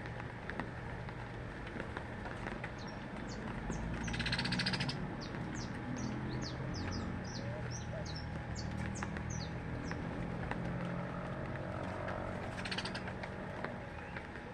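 Small birds chirping: a quick run of short, high chirps, with a buzzy rasping call about four seconds in and again near the end, over a steady low background noise.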